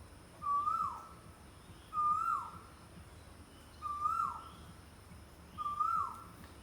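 A bird calling: a single whistled note, rising then dropping, repeated four times about every two seconds.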